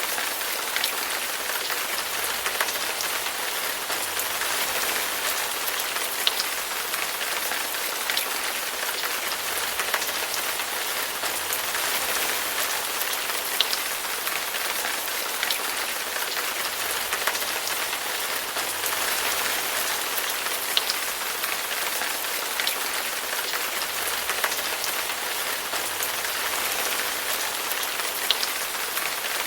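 Steady rain pattering on a hard surface: an even hiss with scattered sharper drop splashes and no thunder.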